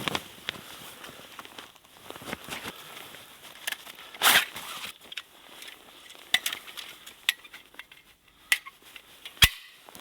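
Scattered knocks, clicks and crunches from someone handling wood and gear in the snow. There is a louder clatter a little before halfway and a single sharp knock near the end.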